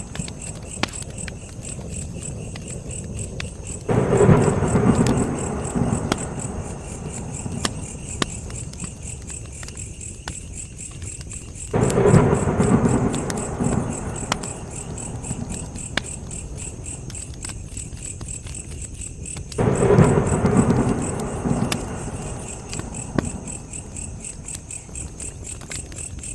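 Campfire crackling with scattered sharp pops while crickets chirp steadily in the background. A low rumble swells up suddenly and fades over a couple of seconds, three times, about eight seconds apart.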